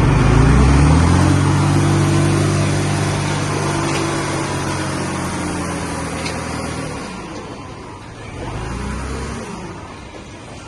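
Diesel engine of a heavy earthmoving machine revving up in the first second, holding a steady high speed for several seconds, then dropping away about seven seconds in, with a shorter second rise near nine seconds.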